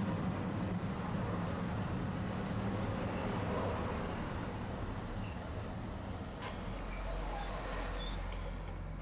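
Tosaden streetcar running, heard from on board: a steady low motor-and-wheel hum that fades about halfway through. Faint high-pitched squeaks and a sharp click follow in the second half.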